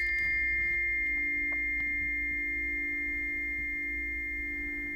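Planetary tuning forks ringing: several steady pure tones, one low and two high, slowly fading together.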